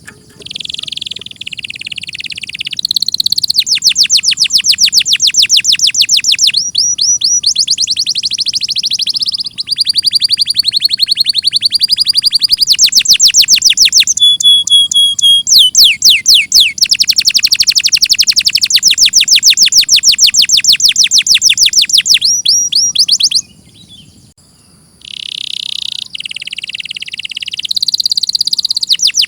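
Domestic canary singing loudly: long rolling phrases of rapid repeated high notes, each run at a different pitch, one flowing into the next. The song breaks off briefly about three-quarters of the way through, then resumes.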